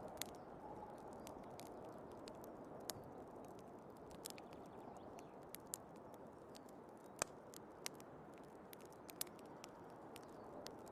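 Wood fire crackling, with irregular sharp pops and the loudest pop about seven seconds in, over a steady, faint snowstorm wind.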